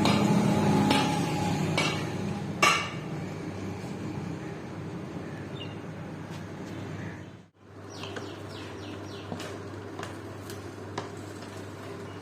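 Scattered metallic clinks and knocks of hand work on a steel hammer head, over a steady low hum, with one sharper knock a few seconds in. The sound cuts out briefly about halfway through.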